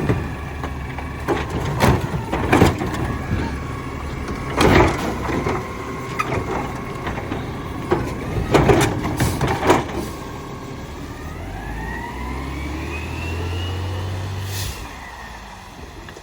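Garbage truck loading: a series of heavy thumps and clatters as trash goes into the hopper, then a steady hum with a rising whine as the compactor cycles, cutting off abruptly near the end.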